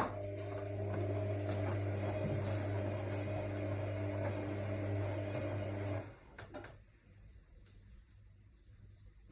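AEG Lavamat L62850L washing machine giving a steady electrical hum that starts with a click and cuts off about six seconds in, followed by a couple of faint clicks.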